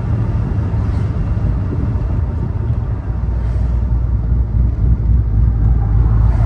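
1969 Corvette's LS3 V8 engine running, a steady low exhaust rumble that grows louder about halfway through.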